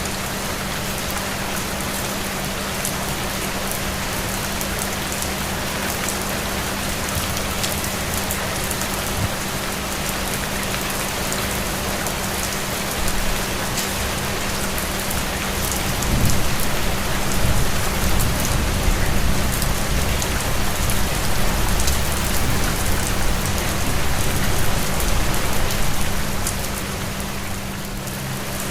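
Steady rain falling, a dense even hiss with individual drops ticking through it. About halfway through, a low rumble swells in underneath for several seconds, then fades near the end.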